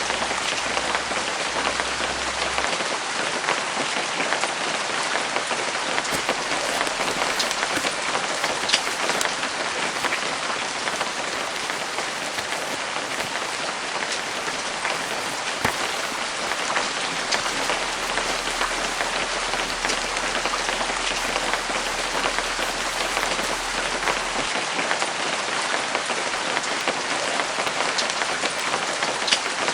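Steady rain falling on canvas, an even hiss with single louder drops ticking now and then.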